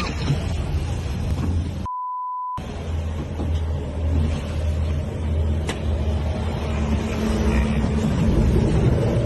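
A steady low rumbling noise, like engine and wind noise in amateur footage. About two seconds in it is cut for under a second by a single flat beep tone, a censor bleep.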